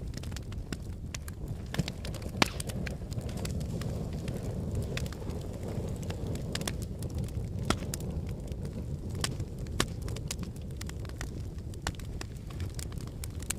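Wood logs burning in a fireplace: a steady low rumble of flames with frequent sharp, irregular crackles and pops, a few louder snaps standing out.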